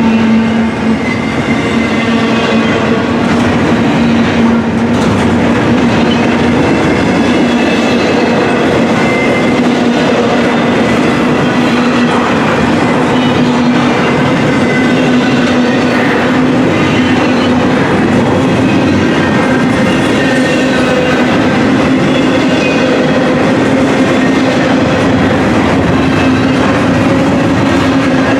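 Intermodal container cars of a freight train rolling past, wheels rumbling and clacking steadily on the rails. A steady whining tone runs under the rumble and edges slightly higher near the end.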